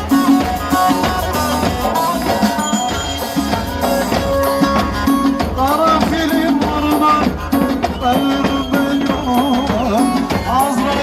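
Instrumental break in live Turkish folk dance music: a melody line with gliding notes over fast, steady percussion.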